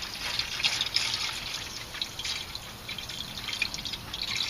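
Windshield washer fluid pouring from a jug into a Ford F-150's washer reservoir, the liquid running unevenly with small splashes.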